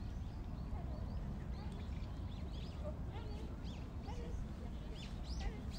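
Small birds chirping, many short high calls overlapping throughout, over a steady low rumble.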